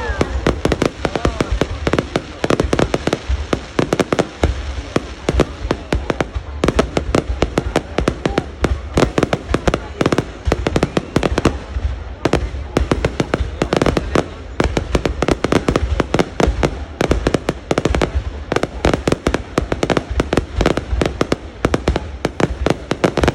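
Aerial fireworks going off in a rapid, continuous barrage: many sharp bangs and crackles each second, overlapping one another.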